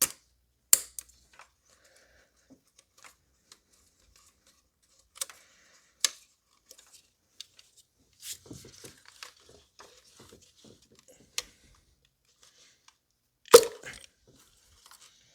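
Sharp plastic clicks and snaps as ignition coil connectors are unlatched and coil packs are worked out of a BMW N55 inline-six, a few separate snaps with a stretch of crackly rustling in the middle and the loudest snap near the end.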